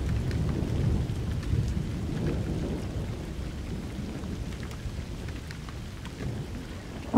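Thunderstorm: a low rolling rumble of thunder that slowly dies away, over steady rain with scattered drops pattering.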